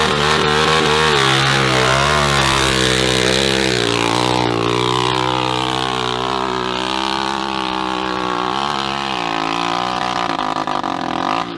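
Dirt bike engine revving hard under load on a steep hill climb, its pitch rising and falling as the throttle is worked.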